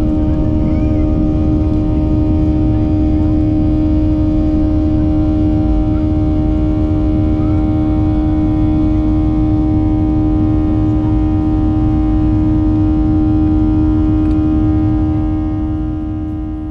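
Boeing 737-800's CFM56 jet engines heard inside the cabin during the climb after take-off: a loud, steady low rumble with a constant droning hum tone, fading out near the end.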